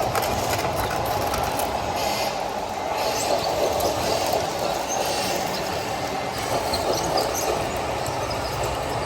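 Steady mechanical whirring of radio-controlled model trucks' electric motors and gearboxes, with faint light ticks.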